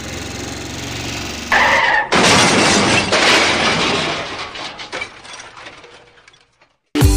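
Cartoon vehicle-crash sound effect: an engine running, a brief high tyre squeal about a second and a half in, then a loud crash of breaking glass and scattering debris about two seconds in that slowly dies away.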